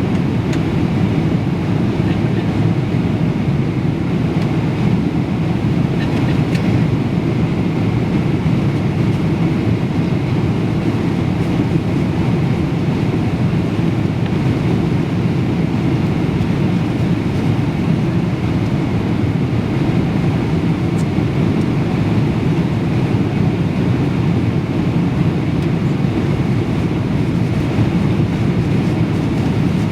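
Jet airliner cabin noise: a steady rush of engine and airflow noise inside the passenger cabin, with no change in level.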